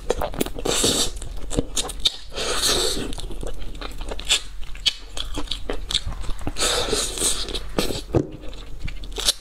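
Close-miked eating: tearing, biting and chewing pieces of spicy bullfrog, a dense run of short clicks and crunches with wet mouth sounds between them.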